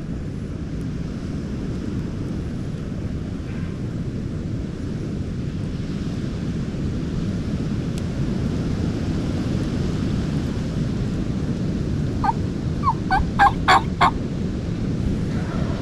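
Wind buffeting the microphone as a steady low rumble, and near the end a wild turkey gobbler gobbles once: a quick rattling run of notes lasting about two seconds.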